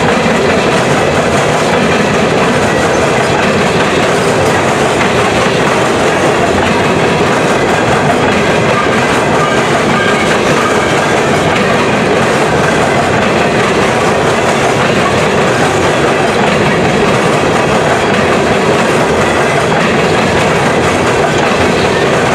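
Empty coal hopper cars of a freight train rolling past, with a loud, steady noise of steel wheels on rail.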